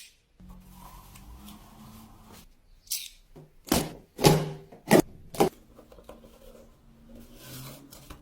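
Product packaging being handled and torn open, with several loud, short tearing and rustling strokes about halfway through.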